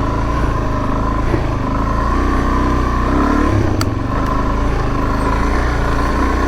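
Suzuki DR-Z400S dual-sport motorcycle's single-cylinder four-stroke engine running at a steady pace under way on a dirt trail, with one sharp click about four seconds in.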